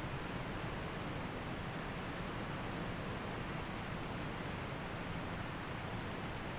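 Waterfall and mountain creek rushing: a steady, even roar of falling and flowing water with no change.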